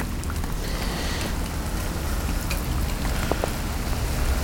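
Heavy rain falling, with scattered sharp taps of drops hitting a plastic bag covering the camera over a steady low rumble.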